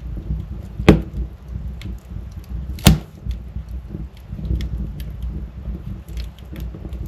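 Wood fire burning in a fireplace: a low steady rumble with scattered small crackles, and two loud sharp pops about two seconds apart.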